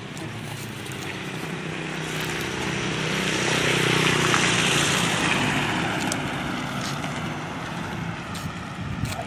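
A motorcycle passing close by on the street: its engine and tyre noise build up, peak about four seconds in, then fade away.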